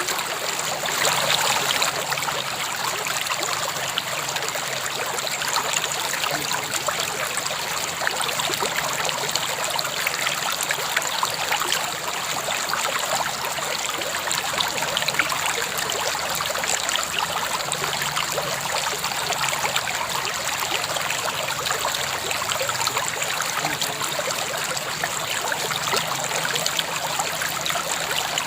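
River water flowing over stones, a steady rushing babble with continual small splashes and trickles.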